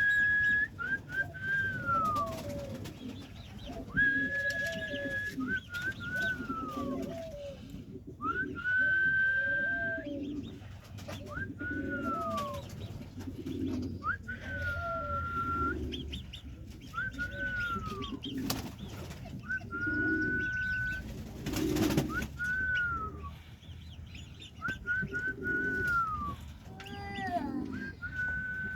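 Doves cooing in a repeated phrase about every two and a half seconds: a held high note, a few short notes and a falling note over low coos.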